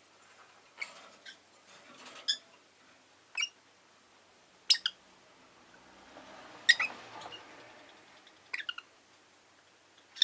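Rosy-faced lovebirds giving short, sharp chirps, one at a time every second or two, with a quick run of two or three calls near the end.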